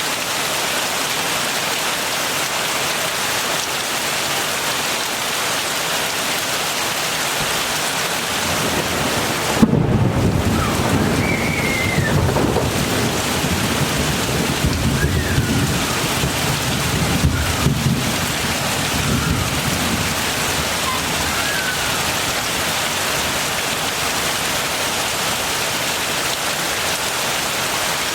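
Steady heavy rain hissing. About ten seconds in, thunder breaks in with a sharp crack and rumbles low for roughly ten seconds before fading back under the rain.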